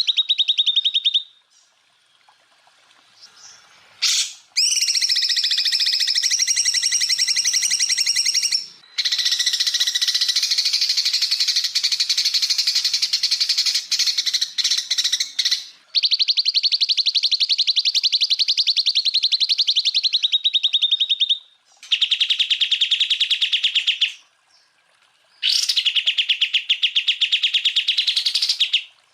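Cucak ijo (green leafbird) singing a string of long, very fast trilled bursts, the 'tembakan' of a masteran song track. The high-pitched phrases last several seconds each, with short breaks between them.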